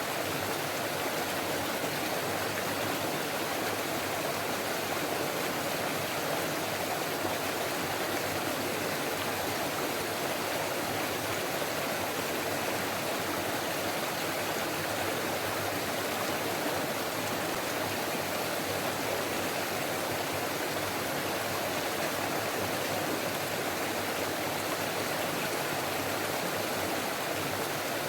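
Forest stream running over rocks: a steady, even rush of water.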